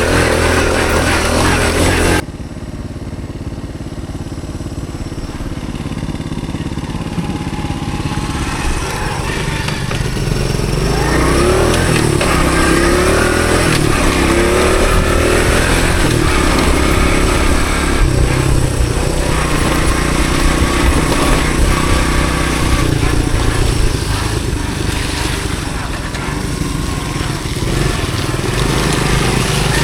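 A couple of seconds of music cut off abruptly, then a Honda CT110 postie bike's small single-cylinder four-stroke engine running under way, its pitch rising and falling as it revs.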